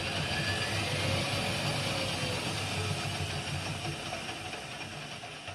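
Zanussi FL904NN washing machine's drum spinning with the rinse water still inside, a steady mechanical whirr that slowly eases off over the last few seconds. This is its 'spin with water' intensive rinse, in which the drum spins without draining first.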